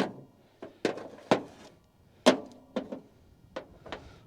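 Sharp metal clanks and knocks, about eight irregularly spaced strikes, from tools being handled and set on the seized engine.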